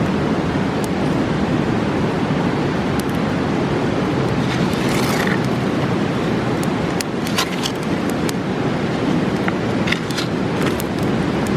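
A fast mountain river rushing steadily, with a campfire crackling over it in scattered sharp pops, a cluster of them in the second half and a brief hiss about five seconds in.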